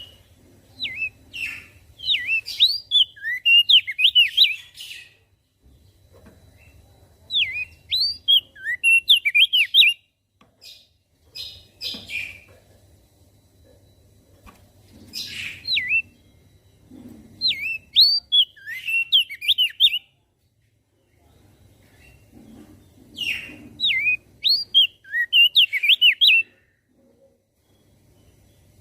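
Opior jambul (crested dark-eye) singing: about five bouts of quick, sweeping whistled notes, each a few seconds long, with short pauses between them.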